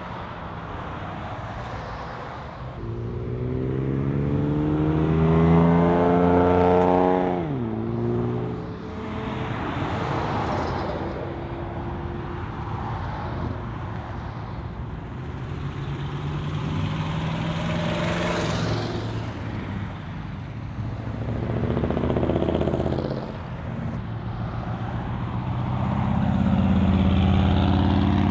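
Muscle car engines running as cars pull out and drive off one after another. The loudest climbs steadily in pitch for about four seconds and then drops sharply, as at a gear change. More cars pass afterwards, and another engine builds near the end.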